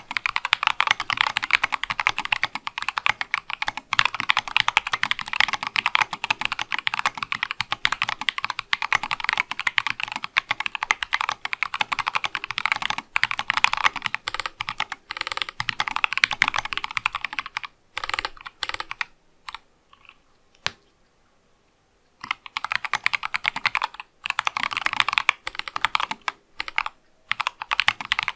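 Fast, continuous typing on an acrylic-case Sesame mechanical keyboard with C3 Kiwi tactile switches. The stream of keystrokes stops for about two seconds a little past the middle, then picks up again.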